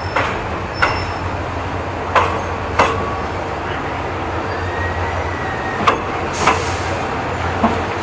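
Passenger train carriage rolling slowly, heard at an open window: a steady low rumble with a knock or clank every second or two and a faint short squeal near the middle.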